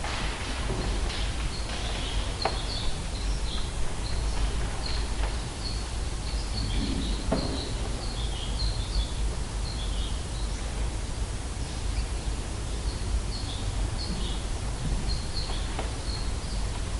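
Small birds chirping in short, high chirps, some dipping in pitch, repeated irregularly over steady low background noise, with a few soft knocks.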